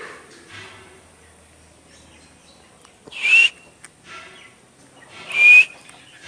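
Parrot giving two loud, harsh squawks about two seconds apart, each about half a second long with a slightly rising whistle in it.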